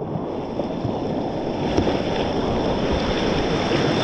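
Rushing whitewater of a creek rapid, steady throughout, with occasional small knocks and wind on the microphone.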